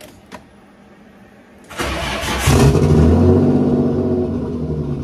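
Nissan RB25DET turbocharged straight-six cranking on the starter and catching a little under two seconds in, then running and slowly dropping in level toward the end as it fails to hold an idle. It won't stay running on its own, which the owner is pretty sure is a fuel pressure issue (a sliced return line at the regulator, no vacuum to the regulator).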